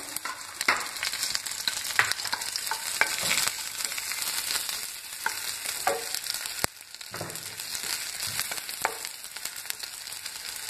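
Chopped ginger, garlic, cumin seeds and dried red chillies sizzling in a spoonful of hot oil in a pan, with a spatula stirring and scraping against the pan now and then.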